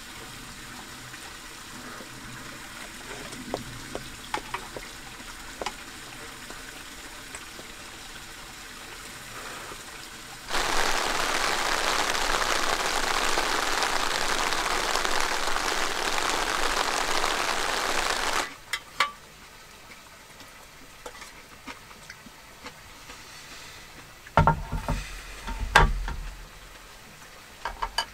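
Steady rain falling, an even hiss that comes in suddenly and cuts off after about eight seconds in the middle. Before and after it, quiet eating sounds with small clicks from chopsticks, and a few loud knocks near the end as the aluminium mess tin is handled on a wooden table.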